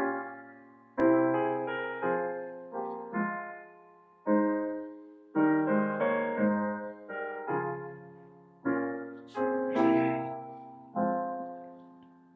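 Slow, quiet piano music: single chords struck about once a second, each left to ring and fade.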